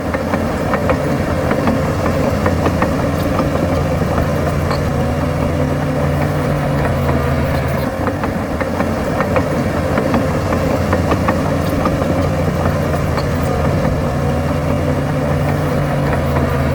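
Heavy diesel engine of earthmoving machinery running steadily. Its note changes about halfway through and returns near the end.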